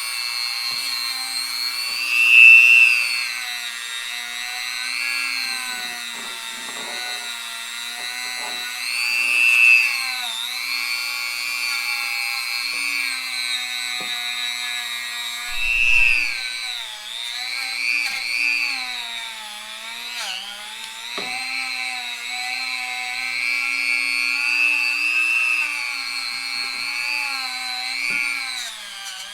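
Handheld rotary power tool with an abrasive pad running at high speed on a dirt bike's engine casing. Its whine sags and recovers in pitch as the pad is pressed into the metal and eased off, with louder swells several times.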